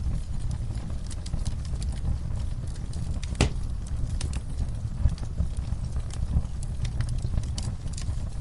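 Fireplace crackling, with scattered sharp pops over a steady low rumble; one louder pop about three and a half seconds in.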